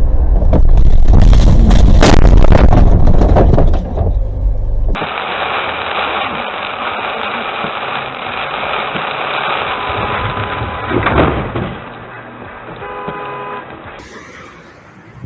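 Car engine and road noise from inside a moving vehicle, loud and deep at first, then thinner traffic noise with a brief car horn honk near the end.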